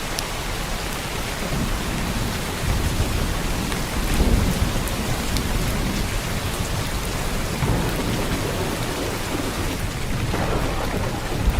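Heavy downpour of rain, a dense steady hiss with a low rumble underneath that swells now and then.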